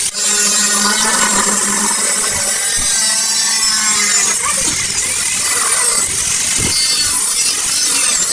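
Power tool cutting through metal: a loud, continuous high-pitched grinding with a whine that wavers slightly in pitch.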